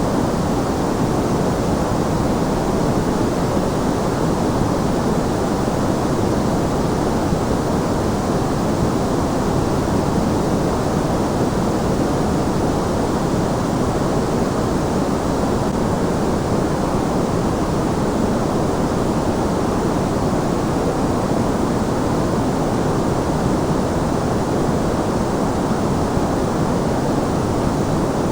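Continuous sleep noise: a steady, even hiss weighted toward the low end, without any change.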